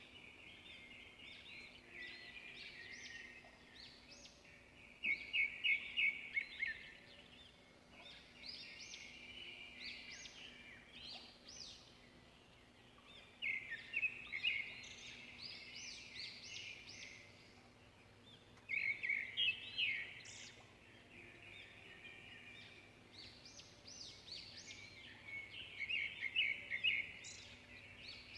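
Birds chirping: loud bursts of rapid, high trilled notes every five to seven seconds, with quieter chirps in between.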